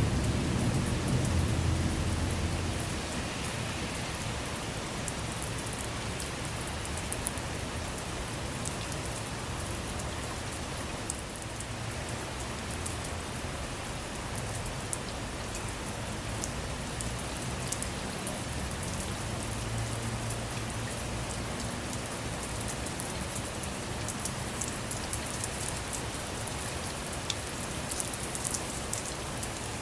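Steady rain falling on a car, with scattered individual drops ticking sharply. A low rumble of thunder dies away over the first few seconds.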